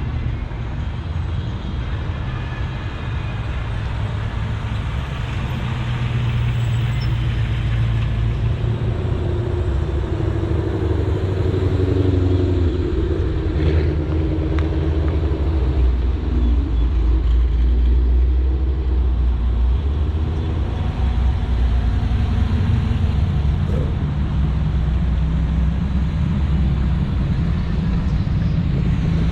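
Car engine running at low speed, a steady low hum whose pitch shifts slightly as it goes, with road noise.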